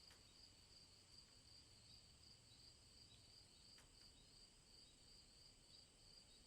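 Near silence, with the faint, steady high-pitched chirring of insects such as crickets in the grass.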